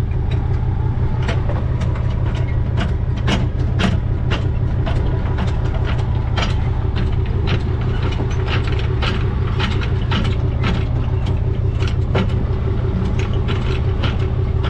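Truck engine idling steadily, with irregular sharp metallic clicks and knocks over it, a couple a second.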